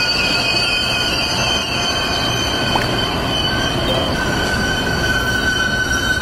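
Metra bilevel commuter train rolling past and slowing to a stop, its wheels squealing in several steady high tones over the rumble of the cars, one squeal growing louder about four seconds in.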